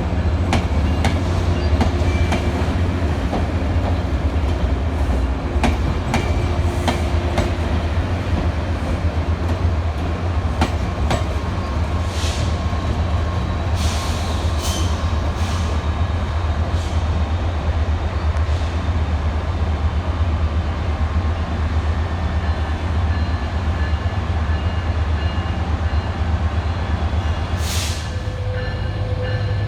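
A train running through a station: a steady low rumble with many clicks of wheels over rail joints, and a few short high hisses, a cluster about halfway and one near the end.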